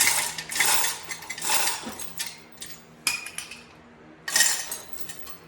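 Loose metal parts or tools clinking and clattering as they are handled, in five or six separate rattling bursts of up to about half a second each.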